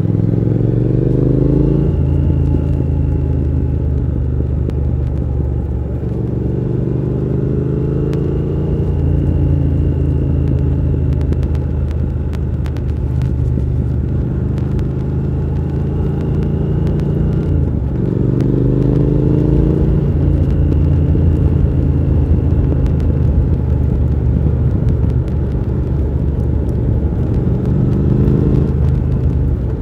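Triumph Thruxton R 1200's parallel-twin engine running under way with wind noise, its note rising as it accelerates four times: near the start, about a quarter of the way in, past the middle, and near the end.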